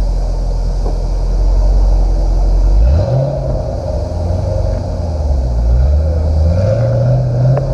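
Car engine and exhaust idling with a deep low rumble, then revved sharply about three seconds in, the pitch rising and falling, and revved again twice more before the end.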